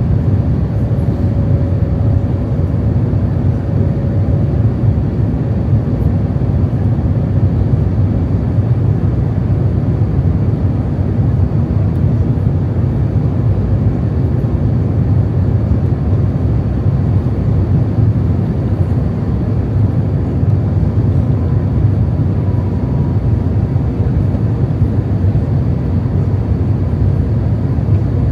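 Steady low cabin rumble inside an Airbus A350-900 airliner on approach: the noise of its Rolls-Royce Trent XWB engines and the airflow over the fuselage.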